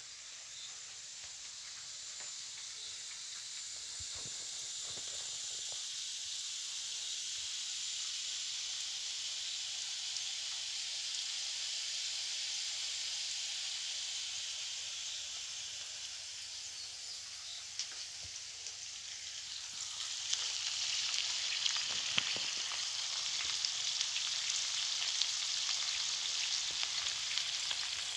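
Diced potatoes and onions frying in oil in a pan: a steady sizzle with scattered crackling pops, growing louder about two-thirds of the way through.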